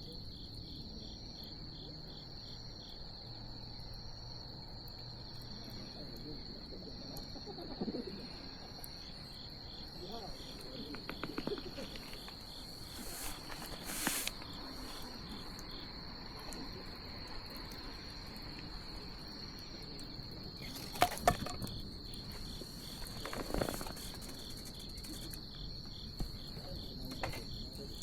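Night insects trilling without a break: one steady high-pitched trill, with a second insect chirping in a fast, even pulse. Over them, a wood bonfire crackles with scattered sharp pops; the loudest are two quick pops about two-thirds of the way through.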